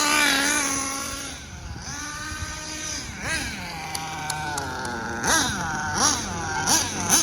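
Small nitro engine of a Hobao Hyper VS RC buggy, running high and then dropping back about a second in, followed by a run of short throttle blips, each a quick rise and fall in pitch, coming faster towards the end. The engine is being broken in.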